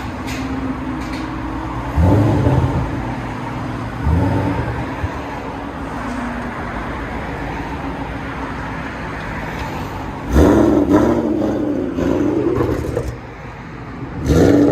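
2012 Shelby GT500's 5.4-litre supercharged V8 idling through long-tube headers and a Corsa Extreme exhaust, blipped twice in the first few seconds. It is then revved hard for about three seconds, starting some ten seconds in, settles back to idle, and is revved again at the very end.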